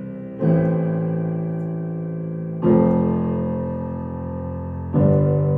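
Piano-sounding keyboard playing the song's closing chords: three sustained chords struck about two seconds apart, each left to ring and fade.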